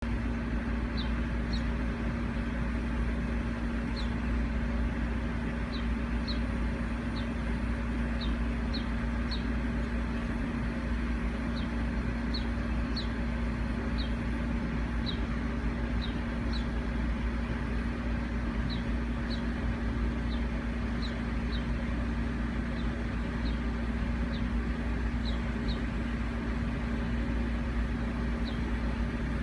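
A small bird giving short, high, slightly falling chirps over and over at an irregular pace, about one or two a second. Under them are a steady low rumble and a steady hum, like traffic or a running engine.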